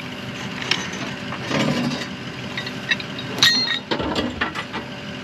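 An engine idling steadily, with metal clinks from the well pipe work and a ringing metallic clank about three and a half seconds in.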